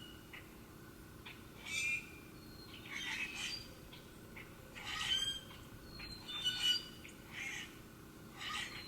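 Wild birds calling outdoors: about six short, harsh calls spaced a second or so apart, with a few thin high chirps in between.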